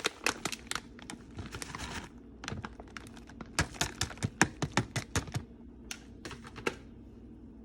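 A quick, irregular run of sharp clicks and taps, like a kitchen utensil knocking against cookware, thickest in the middle and thinning out near the end.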